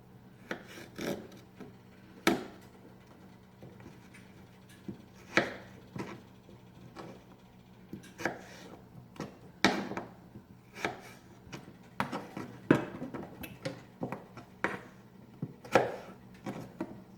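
Kitchen knife cutting raw potatoes into fries on a cutting board: irregular knocks of the blade meeting the board, about one a second, some much louder than others.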